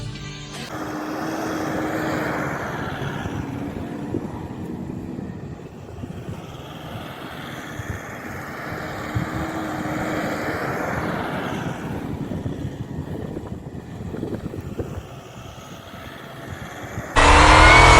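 Off-road vehicle engine running, with a faint wavering engine tone under a rumble. The sound becomes abruptly much louder near the end.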